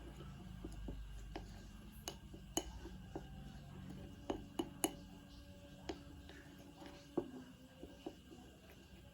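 Dishes and utensils handled in a kitchen: light, irregular clinks and taps, about a dozen in all, over a faint low hum.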